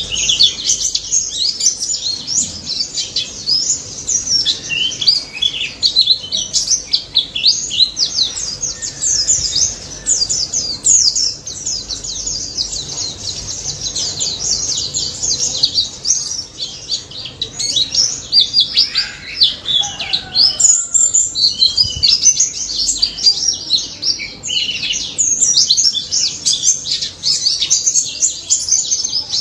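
White-eye (pleci) singing a long, fast, unbroken twittering song of rapid high chirps, with a few lower sliding whistles about two-thirds of the way through.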